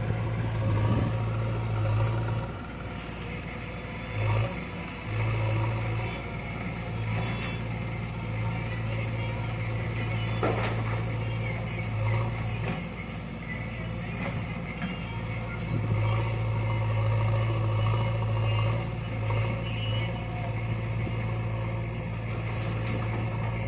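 JCB backhoe loader's diesel engine running steadily as the machine works, with a low drone that drops back and returns several times. A sharp knock sounds about ten seconds in.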